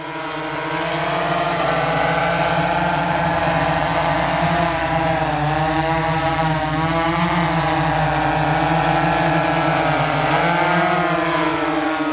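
Radio-controlled crop-spraying drone in flight: the steady, hovering drone of its electric motors and spinning rotors, its pitch wavering slightly as the throttle shifts.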